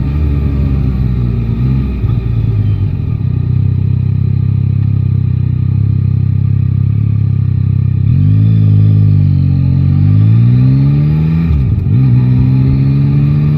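Yamaha Tracer 9 GT's 890 cc inline-three engine running at a steady pitch while riding, then accelerating about eight seconds in. The pitch rises, drops sharply for a moment at a gear change near the end, and rises again.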